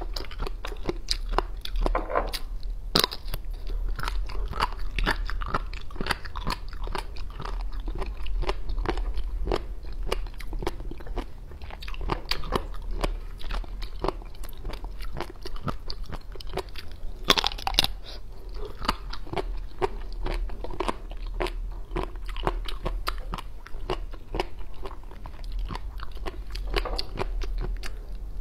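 Crunchy, crackly chewing and biting of prepared jellyfish, close to a clip-on microphone, in a dense run of crisp crunches, with a sharp louder crunch about three seconds in and a loud cluster about seventeen seconds in.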